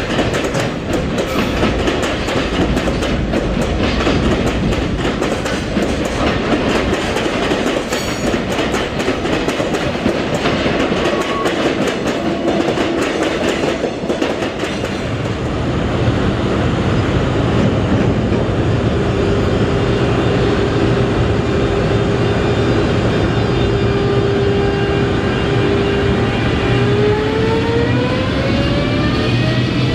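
Train passing on rails, wheels clicking over rail joints under a dense rolling noise. In the second half it settles into a steadier hum, and near the end a whine of several tones rises steadily in pitch, the sound of an electric train's motors speeding up.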